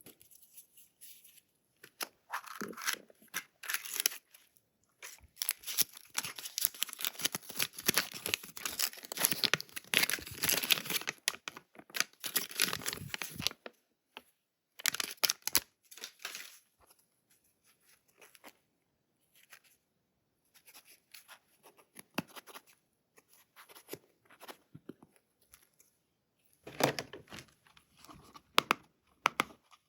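Toy packaging being torn and crinkled open by hand, in irregular bursts, with the longest stretch of tearing in the first half. Sparser rustles and a few sharp clicks follow near the end.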